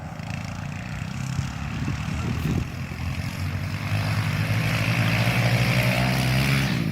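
Small Kawasaki KLX dirt bikes' single-cylinder four-stroke engines buzzing under throttle, growing louder, with a jump in loudness about four seconds in.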